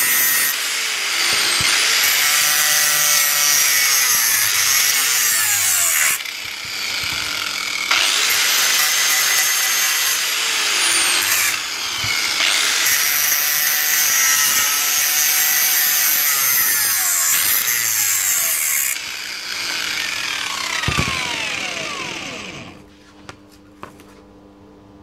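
Angle grinder working the steel of a motorcycle exhaust pipe in three long passes with short breaks, squealing as the disc bites the metal, then winding down near the end.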